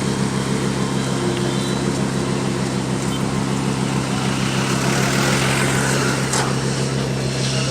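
Vehicle engine running at steady revs, a constant low drone with road noise.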